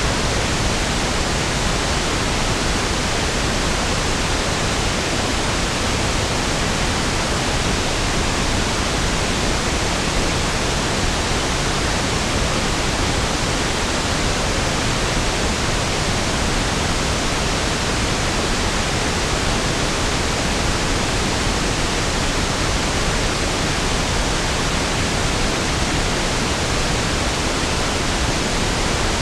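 Steady pink noise (1/f noise): an even, featureless hiss with equal energy per octave, softer and deeper than white noise.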